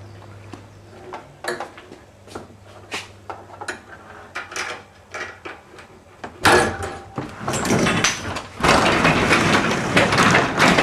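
Garage door hardware knocking and clicking a few times, then from about six seconds in a loud, continuous scraping and rattling as the door is worked.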